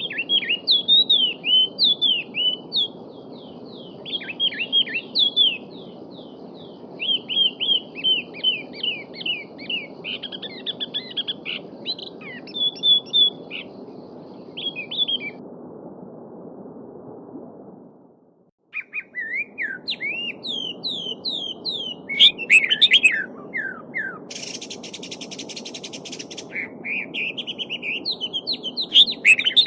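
Small songbirds chirping and twittering in quick runs over a steady babbling stream. About two-thirds of the way through the sound fades out briefly and comes back with different bird calls, including a buzzy rasp lasting about two seconds.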